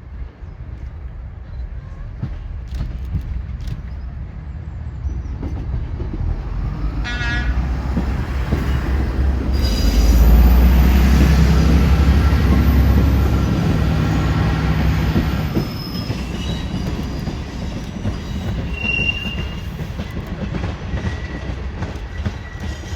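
A Class 37 diesel locomotive running close by, its deep engine sound building to its loudest about ten seconds in and easing off after about fifteen seconds, with a brief high tone about seven seconds in.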